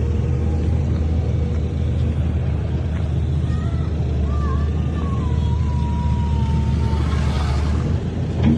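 Heavy earthmoving machine's diesel engine running steadily with a deep low rumble. A thin, wavering high tone rises and settles for a few seconds in the middle.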